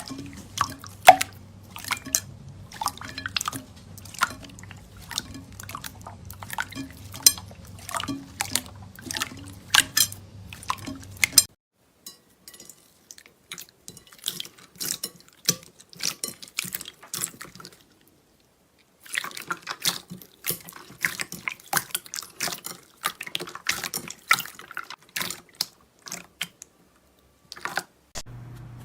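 Slime being squeezed and poked, making rapid wet clicks and sticky pops. It comes in three separate stretches with brief silences between them. A low steady hum lies under the first stretch, which ends about a third of the way in.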